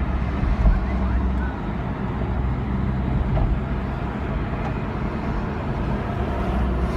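Steady engine and road noise inside a moving car, with a low rumble, and one brief bump about two-thirds of a second in.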